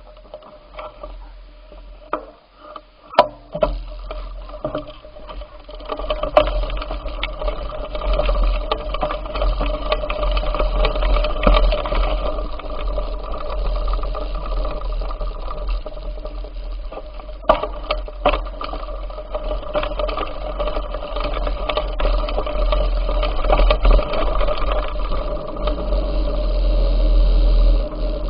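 A bicycle being ridden: a steady rolling and mechanical whirr with a deep rumble underneath, which grows louder about six seconds in. Sharp knocks come about three seconds in and again past the middle.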